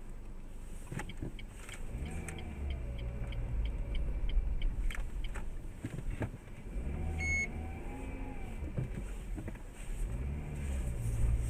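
Car engine and road rumble, with the engine revving up and falling back several times. A run of quick ticks comes about two to five seconds in, and one short beep about seven seconds in.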